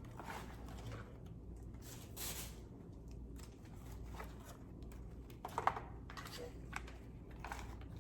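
Faint, scattered clicks and rustles of dry twigs and moss being handled and pushed into a moss-covered paper-bag nest, with a small cluster of sharper clicks about five and a half seconds in.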